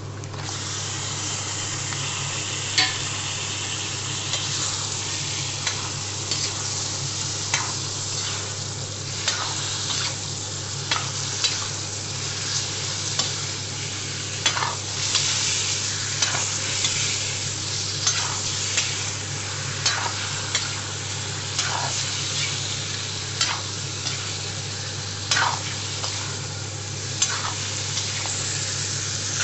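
Chicken pieces and onions sizzling as they fry in mustard oil in a metal pan. A spatula stirs through them, with short scrapes and knocks against the pan every second or two.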